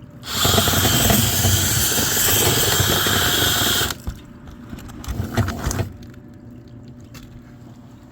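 Loud rushing noise from a water-filled dryer vent being cleaned out, lasting about three and a half seconds and cutting off suddenly, followed by a few knocks.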